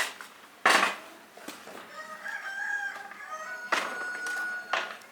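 A rooster crowing, one drawn-out call about two seconds in, among sharp knocks: two loud ones at the start and two more near the end.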